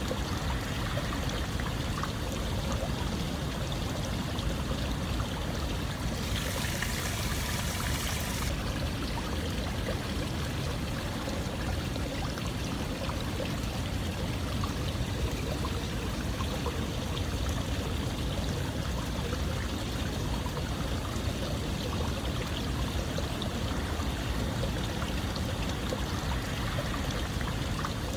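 Running water, flowing and trickling steadily like a stream. A little after six seconds in, a brighter hiss sits over it for about two seconds.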